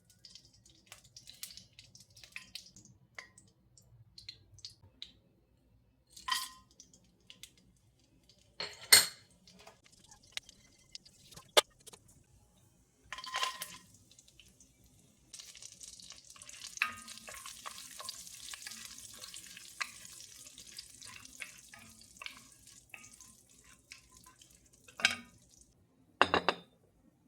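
Kitchen work with dishes and utensils: scattered clinks and knocks of metal and crockery, with a few louder sharp hits, and a steady hiss lasting about nine seconds in the middle.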